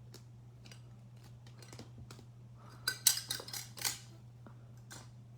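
Cards and packing materials being shifted around on a tabletop: scattered light clicks and taps, with a louder burst of crackly clattering about three seconds in.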